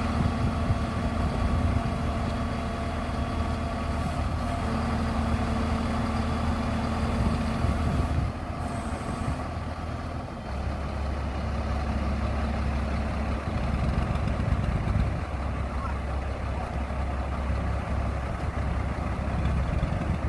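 A heavy truck-type engine running steadily, a low drone with a steady hum. About eight seconds in it eases briefly, then it settles to a deeper, stronger hum from about ten seconds on.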